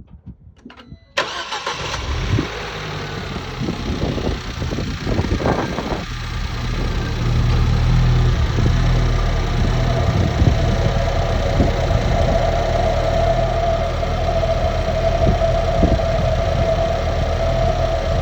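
Ford Fiesta ST180's 1.6 EcoBoost turbocharged four-cylinder starting about a second in and settling to a steady idle. From about seven seconds in, a steady whirling, vacuum-like whine rises over the idle and holds; the owner notes it is not caused by the Symposer delete.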